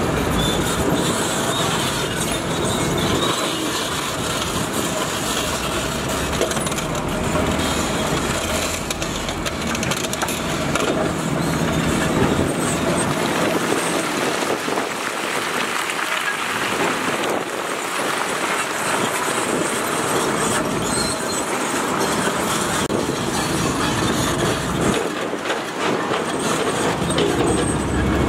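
Heavy construction machinery at work: engines running with continuous clanking and clattering, typical of steel tracks and rock being moved.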